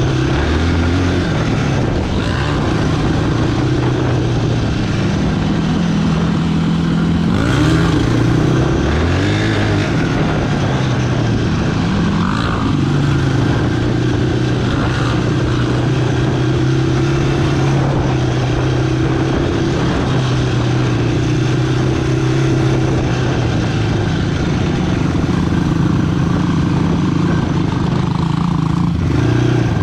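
Single-cylinder sport quad engine running under way, mostly at a steady pitch. The engine revs up and down with the throttle about eight seconds in.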